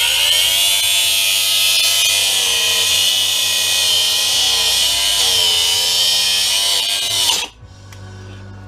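Electric power tool with a cutting blade running at full speed as it cuts into the jump starter's casing. Its high whine sags briefly in pitch partway through as it bites under load, then cuts off suddenly about seven and a half seconds in.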